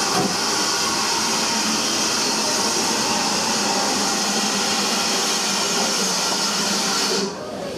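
Steam locomotive letting off steam: a loud, steady hiss that stops abruptly near the end.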